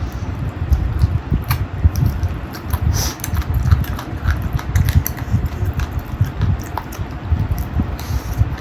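Close-miked eating sounds: chewing with many short, irregular mouth clicks and smacks over a constant low rumble.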